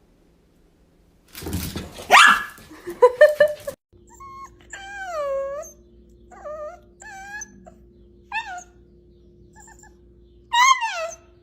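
A dog whining and yipping in a string of short, high calls that bend up and down in pitch, about six of them over several seconds. They are preceded by a loud, noisy burst with a rising squeal about two seconds in.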